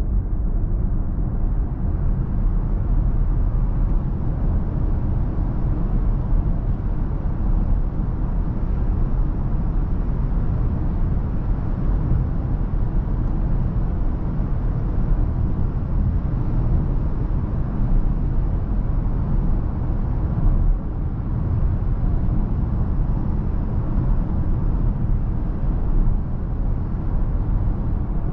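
Steady low rumble of tyre and wind noise from a BMW iX3 electric car driving at speed, with no engine note. The hiss builds over the first couple of seconds as the car speeds up, then holds.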